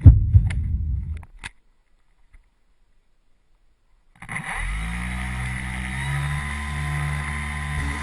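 Engine of an RC Yak 55 model plane running steadily, starting abruptly about four seconds in after a short silence, its pitch wavering a little. A few low thumps in the first second.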